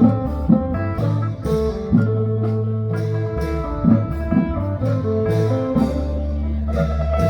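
Band music: a plucked guitar melody over long held bass notes, with drum hits.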